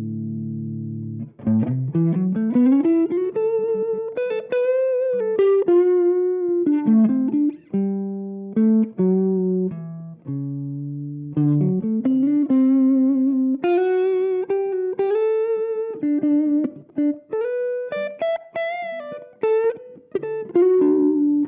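Electric guitar played through a TC Electronic MojoMojo overdrive pedal. A held chord rings out first, then a single-note lead line with slides up into notes, bends and vibrato. Another chord is held near the end.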